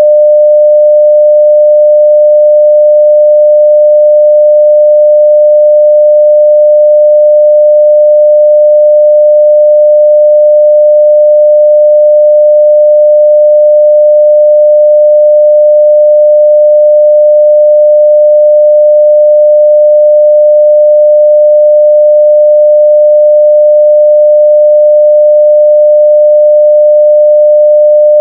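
A 600 Hz pure sine-wave test tone at full level (0 dB), held steady without change.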